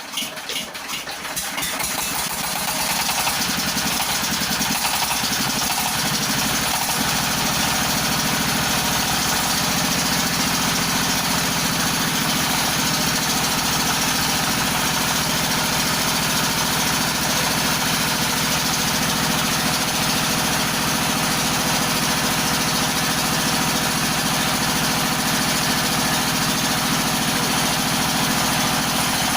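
Floating fish-feed pellet machine starting up and running. It builds up over the first few seconds, is uneven at first, and settles into a steady mechanical drone about seven seconds in.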